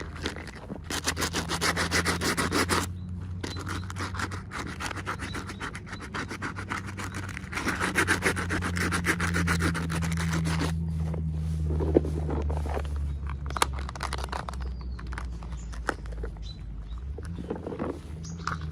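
Fast, dense scratching and rubbing of hands working at toy packaging, over a low steady hum; the scratching is heaviest in the first half and thins out after about ten seconds into scattered clicks.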